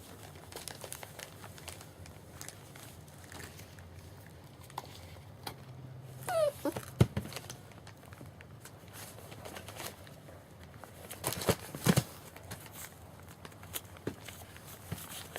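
German Shepherd puppies moving about with scattered rustles, clicks and a few knocks, the loudest about twelve seconds in. About six seconds in, one puppy gives a short whimper that falls steeply in pitch.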